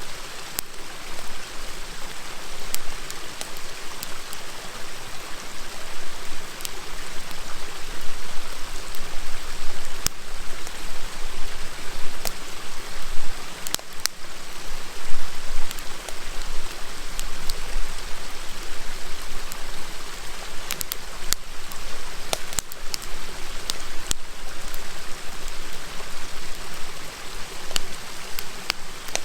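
Wood campfire crackling, with sharp pops scattered irregularly and a small cluster of them about two thirds of the way through, over the steady rushing murmur of a river.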